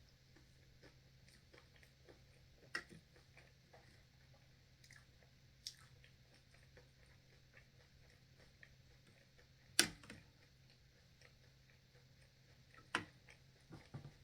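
A person chewing and biting crunchy food close to the microphone, with a few sharp crunches, the loudest about ten seconds in, over a faint low hum.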